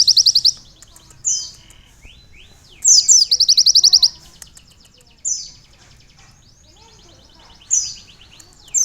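A sunbird (konin) singing canary-style song, trained on canary song. Each phrase is a sharp high falling note that runs into a fast, even trill, and the phrases come again every second or two. The longest trill lasts about a second, and softer falling notes sound between the phrases.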